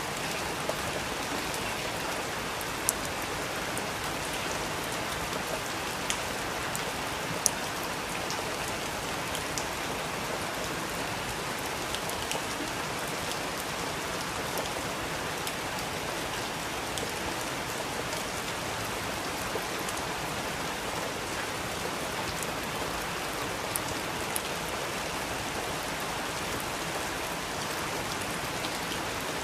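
Steady rain falling, an even hiss with scattered louder drops ticking on a surface, a few sharper ones in the first eight seconds.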